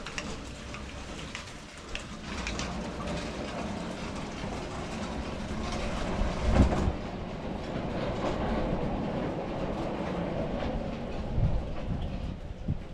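MechMaxx SM32 portable band sawmill running, with a steady rumbling clatter as it works an oak log. A heavy knock comes about six and a half seconds in, and a lighter one near the end.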